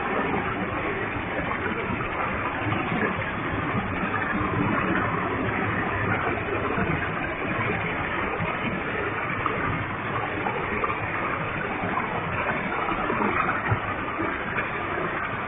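Waterfall with a heavy flow of water: a steady rushing noise of falling water and spray that holds an even level throughout.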